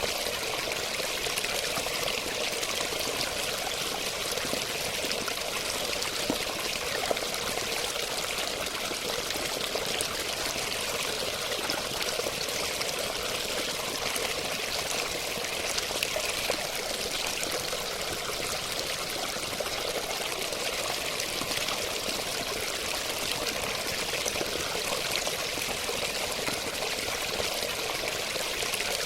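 Steady, unbroken rush of running water, like a stream or small cascade flowing and splashing.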